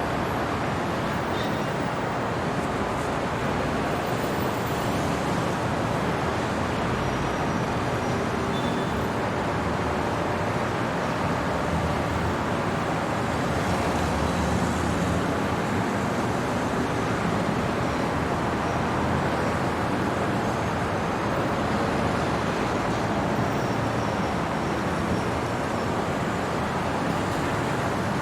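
Steady hum of city traffic at night, with an even wash of road noise and no single vehicle standing out.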